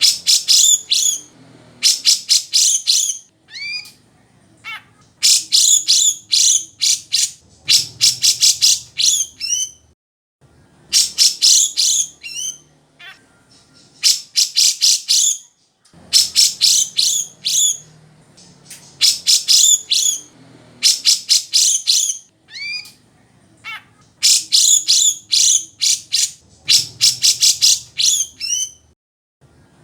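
Cucak jenggot (grey-cheeked bulbul) singing loudly and continuously: repeated phrases of rapid, high, chattering notes, each about two seconds long and coming every few seconds.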